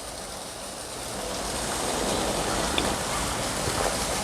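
Steady rushing, hissing noise like running water or steam, growing louder about a second in and then holding level.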